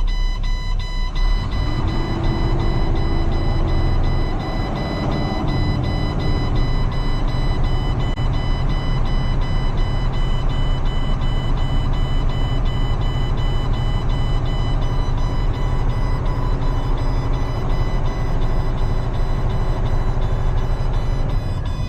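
A heavy tow truck's diesel engine runs steadily with a deep rumble, and a steady high-pitched whine sits over it.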